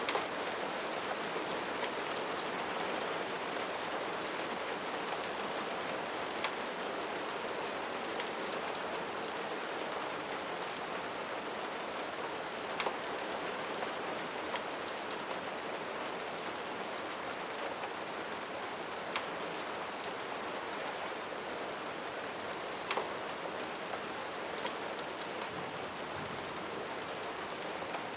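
Steady rain falling, an even hiss of many drops, with occasional sharp single ticks scattered through it.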